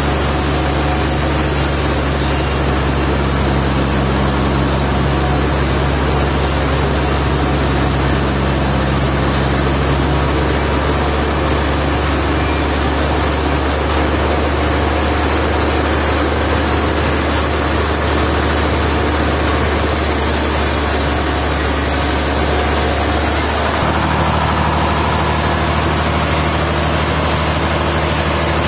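Sawmill machinery running steadily: a heavy engine's low hum under a constant hissing haze, its pitch shifting once about three-quarters of the way through.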